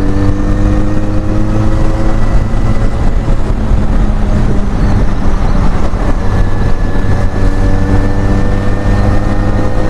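Benelli Leoncino 500's parallel-twin engine running through an aftermarket exhaust while under way, its pitch climbing slowly in the first couple of seconds and again over the last few seconds, over a steady low rush.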